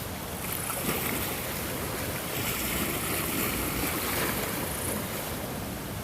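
Ocean waves on a shore: a wave swells up about half a second in and washes out again after about four seconds, over a steady hiss of surf.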